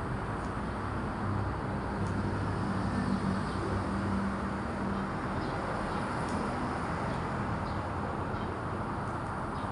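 Steady low rumble and hiss of background noise with a faint hum and a few faint ticks.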